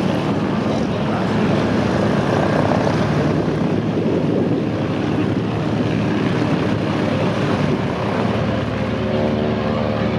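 Piston engines of vintage propeller aircraft running loudly: a dense, steady drone. A steadier engine tone comes through about eight seconds in.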